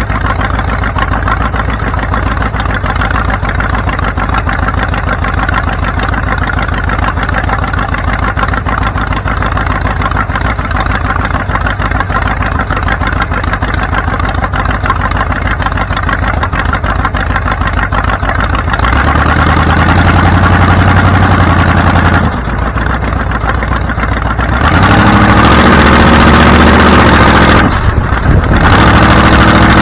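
Vehicle engine running steadily, then louder with a clear engine tone from about two-thirds of the way in, changing pitch in steps as it revs.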